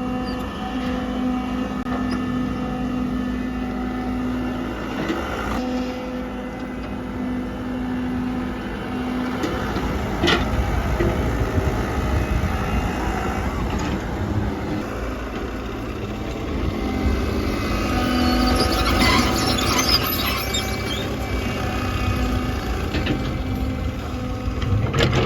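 JCB 3DX backhoe loader's diesel engine running steadily under working load, with a low rumble. A few sharp metal knocks come around ten seconds in and again near the end. A spell of high scraping and rattling comes about eighteen to twenty seconds in.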